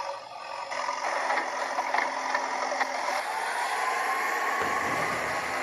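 Toy truck's engine sound running steadily, with a few clicks and a rising whine a few seconds in.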